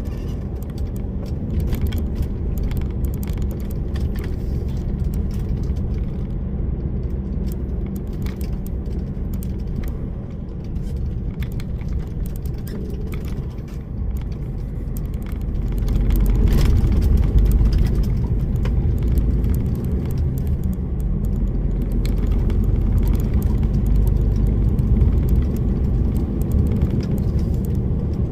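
DAF lorry's diesel engine and road noise heard inside the cab: a steady low drone that gets louder a little over halfway through.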